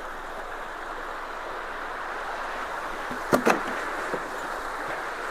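Water rushing steadily through a freshly unclogged culvert, with two sharp knocks close together a little past the middle and a fainter one just after.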